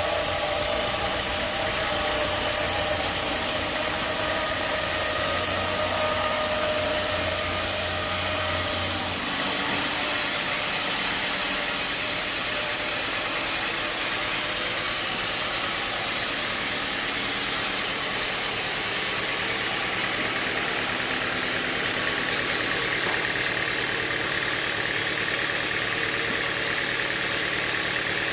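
Sawmill machinery running steadily with an engine-like drone. About nine seconds in the sound changes abruptly and the low hum drops away.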